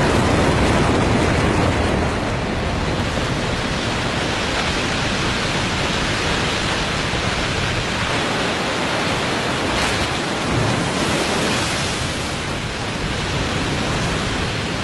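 Waterfall in spring breakup, with meltwater carrying mud and broken ice pouring over a 35-metre drop: a steady, dense rushing with no let-up.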